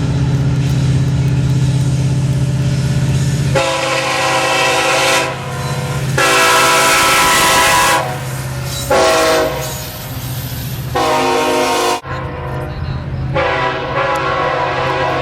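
Diesel locomotive running, with its multi-chime air horn sounding about five times in a pattern of long and short blasts, the engine drone heard underneath and between the blasts.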